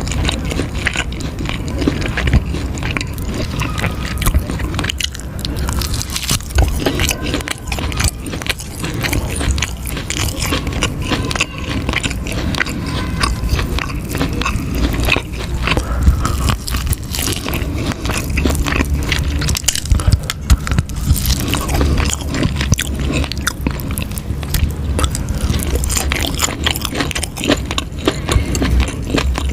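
Close-miked eating of cheese ribs: continuous crunchy biting and chewing, with dense irregular crackles and snaps.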